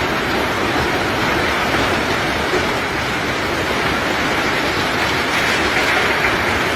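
Steady, loud rushing rumble of bulk rock being unloaded, with no let-up or distinct strikes.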